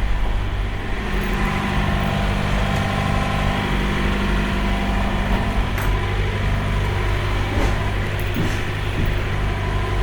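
Peterbilt semi truck's diesel engine running steadily at a low, even speed.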